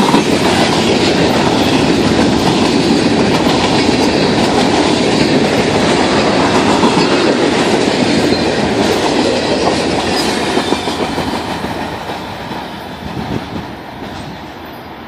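Train rolling past close by, its wheels clicking over the rail joints in a steady loud rumble that fades away near the end as the train moves off.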